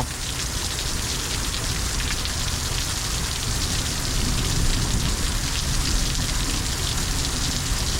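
Heavy thunderstorm downpour: a steady, dense patter of rain falling on surfaces and pooling water.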